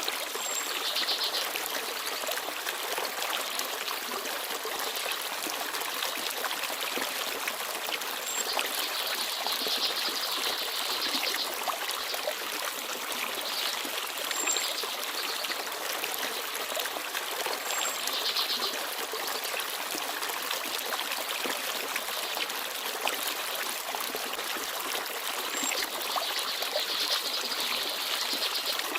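Forest stream babbling steadily over stones. Small birds chirp now and then above it, with short, high, thin notes about five times.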